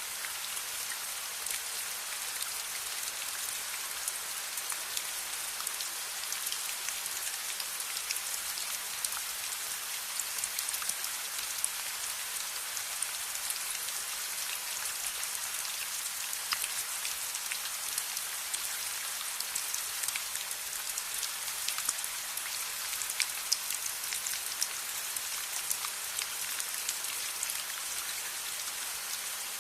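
Steady rain falling, a dense even hiss with many small sharp ticks of drops scattered through it.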